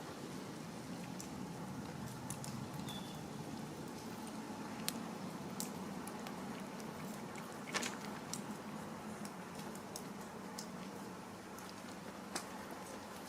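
Street cats eating food, with scattered small clicks of chewing and crunching over a steady background hiss.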